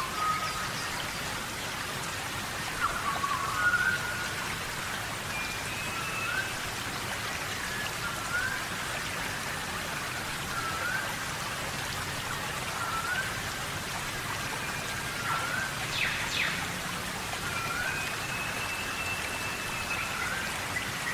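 Tropical rainforest rain falling steadily. Short rising chirps from an animal caller repeat every second or two, with a few longer, higher whistles.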